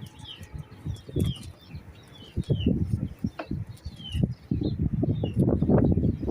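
A bird chirping repeatedly, short falling chirps about twice a second, over irregular rustling and thumps that get louder and busier in the second half.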